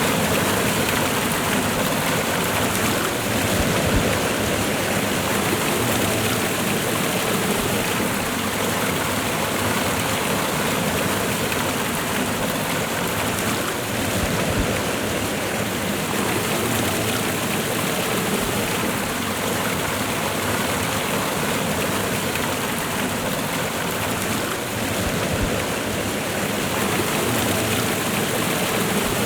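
Waterfall and river water rushing, a steady, even roar of falling and flowing water.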